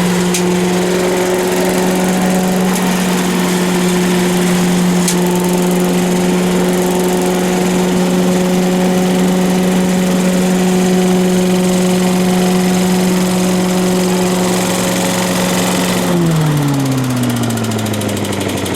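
Freshly rebuilt Briggs & Stratton 5 hp single-cylinder engine on a leaf blower, running steadily at high speed with the rush of the blower's air. About sixteen seconds in it slows down, its pitch falling steadily.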